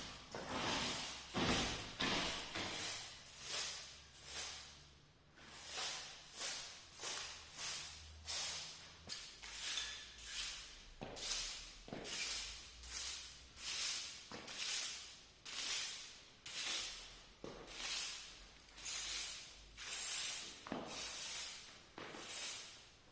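A broom sweeping a floor in short, regular swishing strokes, about one a second.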